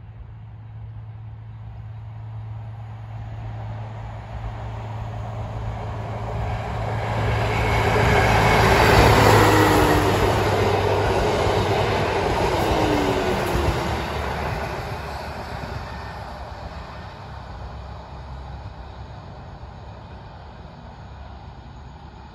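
Diesel railcar train approaching, passing close by and receding. The engine drone and rolling wheel noise build to a peak about nine seconds in, drop in pitch as the train goes past, then fade away.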